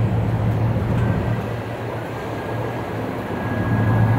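Pickup truck engine idling with a steady low hum that eases a little about two seconds in and builds again.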